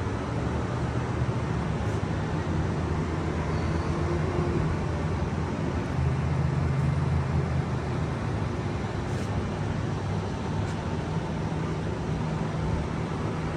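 Steady outdoor traffic noise: a continuous low rumble of vehicle engines with a hiss of passing traffic.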